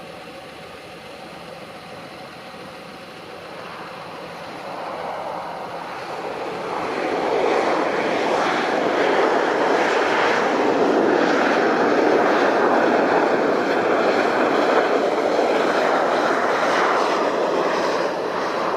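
Jet airliner passing, its engine noise building over a few seconds into a loud, steady roar that holds and eases slightly near the end.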